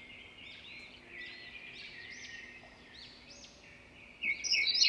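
Small birds chirping in the background: a string of short, rising-and-falling chirps, faint at first and louder near the end.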